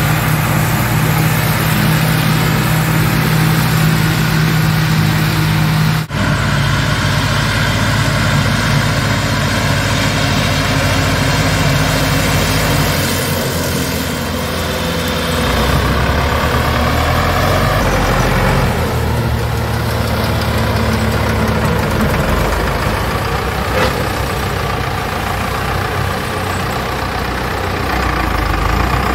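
Ursus farm tractor's diesel engine running steadily, with an abrupt change in the engine sound about six seconds in.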